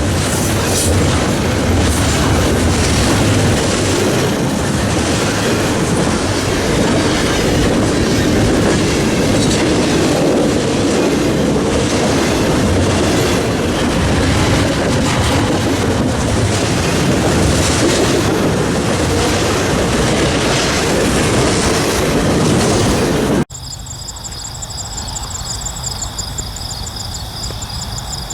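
Freight train rolling past close by, its wheels clicking over the rail joints with a steady clickety-clack. About 23 seconds in, the sound cuts off suddenly to a quieter scene with insects chirping steadily in high pulsing trills.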